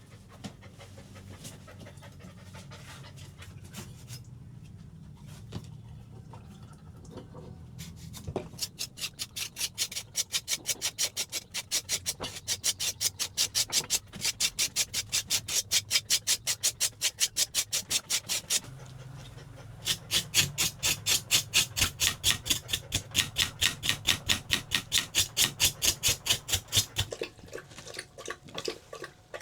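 A Dalmatian panting fast, about five breaths a second, in two long runs with a short pause between them, after a quieter start.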